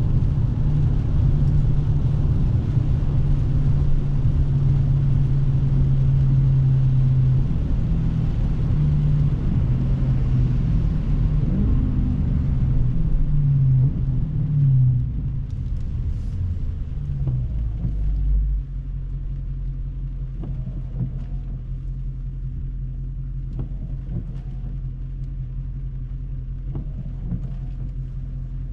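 Dodge Scat Pack's 392 HEMI V8 running on the move, with tyre hiss from the wet road. The engine note changes and the hiss fades as the car slows, about twelve to fifteen seconds in. From about eighteen seconds it settles to a quieter, steady idle with faint light ticks.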